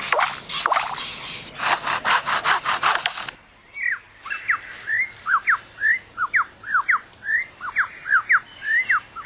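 Superb lyrebird mimicking a chainsaw: a run of rasping, sawing strokes for about three seconds, then a quick series of whistled notes, mostly falling in pitch, about two a second.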